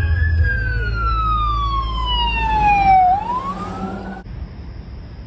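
Emergency vehicle siren wailing: a slow fall in pitch over about three seconds, then rising again until it cuts off abruptly about four seconds in, over a low rumble.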